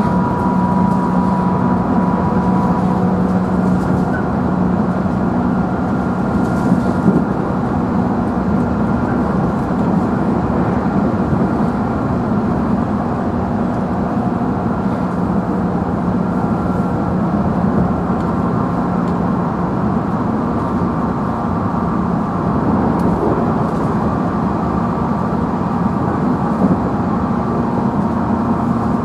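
Interior of a JR Central 311 series electric train's motor car running steadily: a constant rumble of wheels on rail with steady hum tones from the traction motors.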